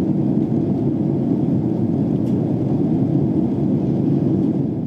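Steady low rumble of an airliner cabin in flight on descent, the engine and airflow noise heard from a passenger seat, fading out at the very end.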